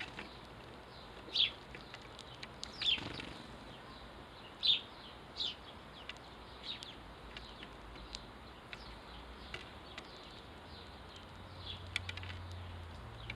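Sparrows chirping: short single high chirps, scattered and irregular, every second or so, a little sparser after the first few seconds.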